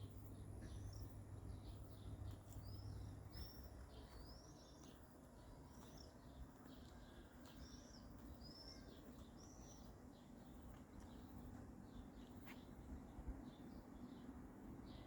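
Faint bird chirps: a string of short, high calls repeating roughly once a second for several seconds, then thinning out, over quiet outdoor background noise.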